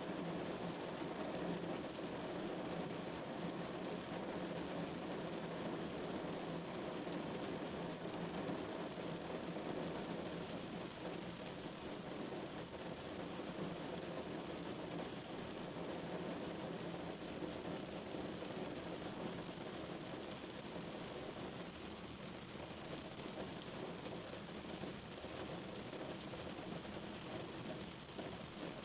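Steady rain drumming on a car's roof and body, a dense even patter of drops.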